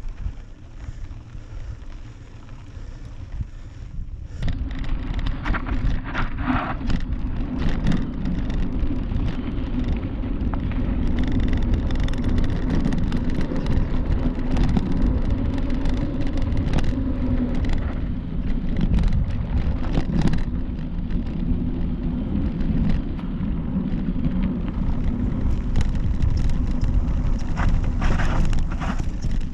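Wind rushing over the microphone and tyres rolling on a dirt trail as a mountain bike rides along, with scattered knocks and rattles from bumps. It gets louder about four seconds in as the bike picks up speed.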